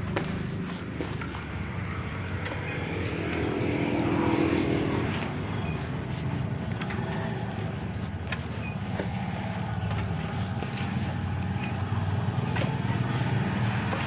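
Yamaha RX-King 135cc two-stroke single-cylinder motorcycle engine running steadily under way. It swells briefly about four seconds in.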